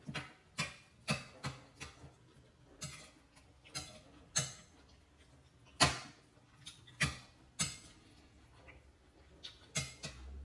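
A spoon clinking against a bowl while eating, in short irregular clicks about twice a second.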